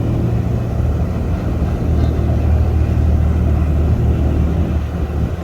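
Jet ski engine running steadily at cruising speed, a constant low drone, with rushing wind and water noise.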